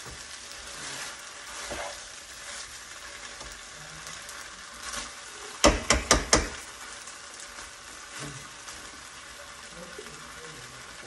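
Gobi manchurian, fried cauliflower in a thick sauce, sizzling steadily in a pan as it is stirred with a spatula. About halfway through, four quick sharp knocks of the spatula against the pan.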